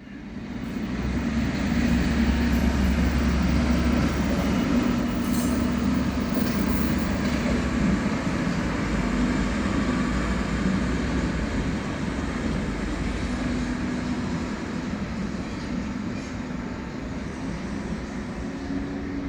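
A train passing close by: a loud, steady running rumble with a strong low hum, slowly fading over the last several seconds.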